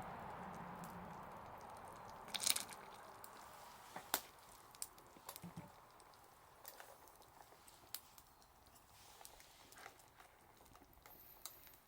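Wood fire crackling: scattered sharp pops and snaps, the loudest a short cluster about two and a half seconds in.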